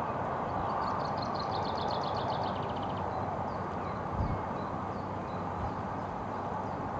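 Steady rushing background noise, with a small songbird singing a rapid high trill from about a second in for two seconds, a few scattered chirps after it, and a single soft low thump about midway.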